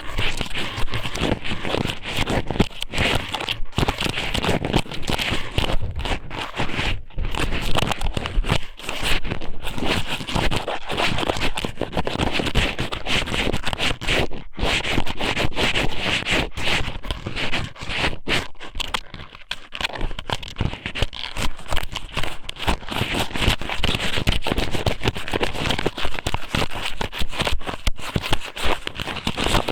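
Strips of raw squid (ika somen) pushed into and rubbed around the ear of an ASMR microphone, making close, continuous crackling and scraping right on the mic, broken by a few very short pauses.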